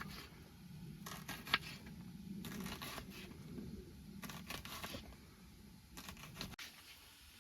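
Scattered short scraping and rustling strokes, a few in a row about a second in, again around two and a half seconds and near four and a half seconds, over a low background murmur.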